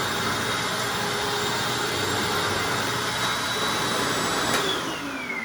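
Hoover Anniversary upright vacuum cleaner running steadily with a high whine. About four and a half seconds in there is a click, and the whine then falls steadily in pitch as the motor is switched off and spins down.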